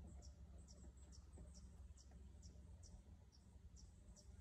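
Faint, high bird chirps repeating evenly about twice a second over a low ambient rumble, otherwise near silence.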